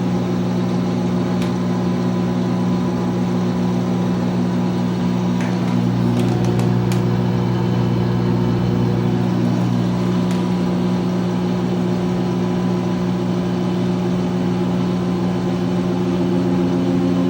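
2006 GE Profile top-loading washer in its spin cycle, the motor and drum running with a steady hum that grows a little louder about six seconds in. A few faint clicks come through now and then.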